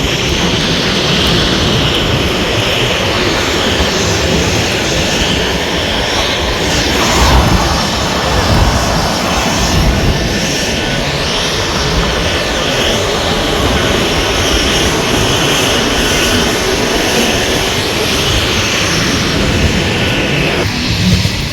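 Jet airliner engines running, a loud steady rushing noise that swells a little a few times.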